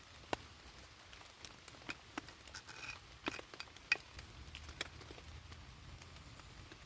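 Scattered raindrops falling as irregular light ticks, about one or two a second, over a faint low rumble.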